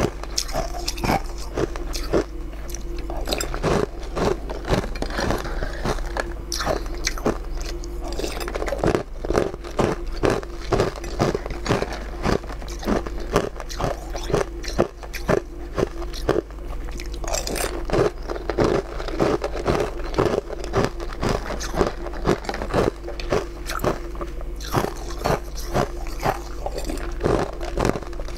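Close-miked eating: a person biting, crunching and chewing food, heard as many irregular sharp clicks in quick succession, over a steady low hum.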